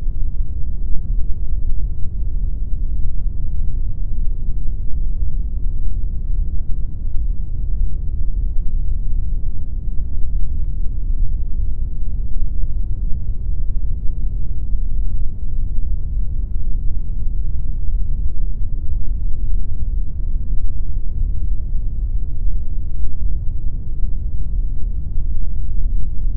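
Steady pink noise, a deep, even rushing sound that is strongest in the lows and has almost no high end, unchanging throughout.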